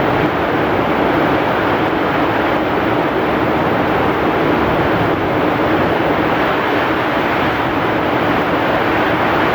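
Heavy rain with strong wind: a loud, steady, dense rush of noise.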